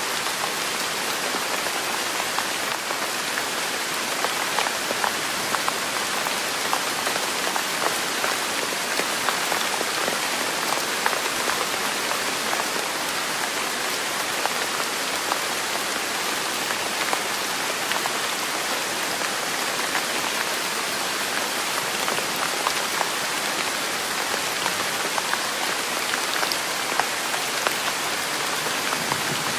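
Steady rain falling on a surface: an even hiss dotted with many small, sharp drop ticks, holding steady without let-up.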